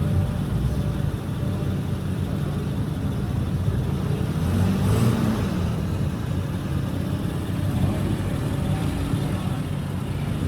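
A car engine running steadily, with a brief louder swell about five seconds in.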